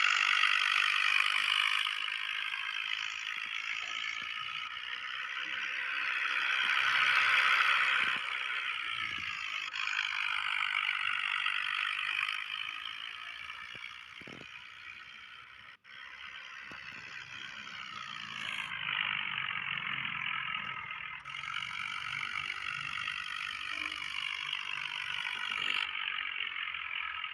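Swaraj 855 FE tractor working a harrow: a steady mechanical clatter and rattle of the implement and tractor, dropping out briefly about halfway through.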